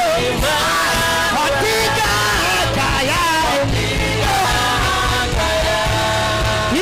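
Live church worship music: a sustained keyboard-and-bass backing with a voice singing long, gliding held notes over it.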